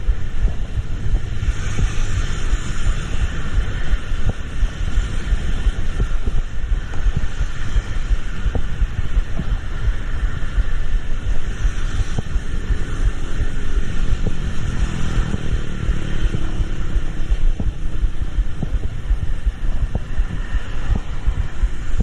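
A vehicle on the move: a steady low rumble with hiss and wind buffeting on the microphone. A faint engine tone rises and then eases off about two-thirds of the way through.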